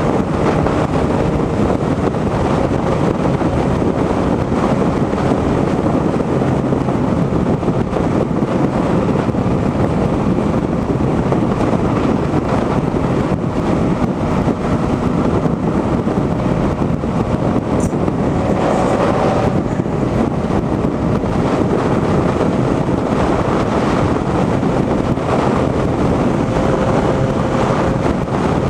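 Wind rushing over the microphone on a motorcycle riding at steady highway speed, with the engine's steady drone faintly underneath.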